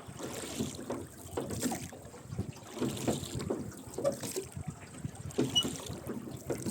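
Rowboat being rowed: oars dipping and splashing in the water with the oarlocks creaking, in a steady rhythm of about one stroke every second and a half.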